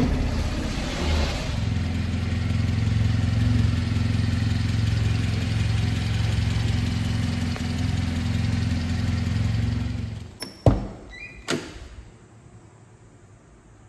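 1996 Subaru Sambar truck's small 660 cc four-cylinder engine running steadily at idle, then shutting off about ten seconds in. Two sharp knocks follow a second apart.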